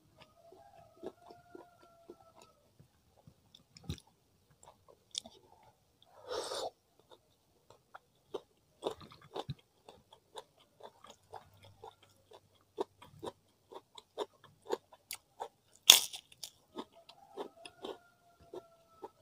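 Close-miked eating: chewing and crunching with many small wet mouth clicks. One louder crunch comes about six seconds in, and a sharp crack about sixteen seconds in.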